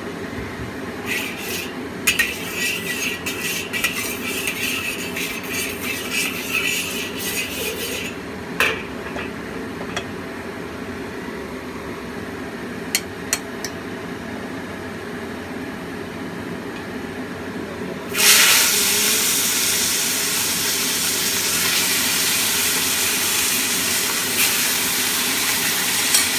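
Hot oil crackling in a wok with a metal spatula stirring and clinking, then about eighteen seconds in a sudden loud, steady sizzle as the marinated quail go into the hot oil to fry. A steady low hum runs underneath.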